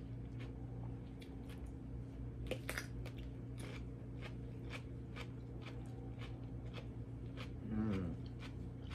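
Chewing of crisp raw cucumber, with crunches at about two a second. A short hummed "mm" near the end, over a steady low hum.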